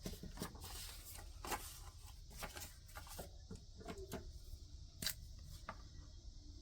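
Faint desk-top handling sounds: scattered light taps and short rustles of paper and a marker being worked over paper, over a low steady hum.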